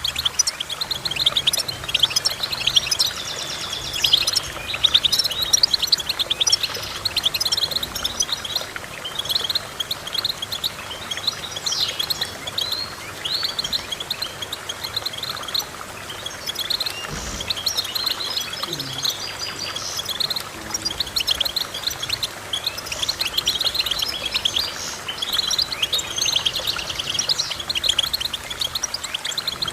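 Songbird song: a fast, continuous run of high, twittering chirps and trills with brief pauses.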